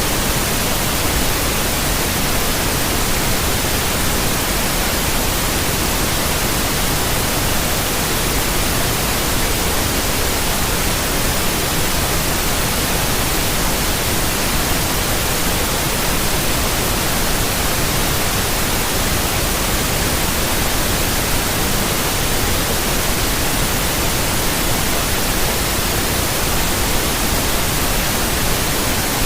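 Steady white noise: an even, unchanging hiss spread across all pitches, with no rhythm, tone or break.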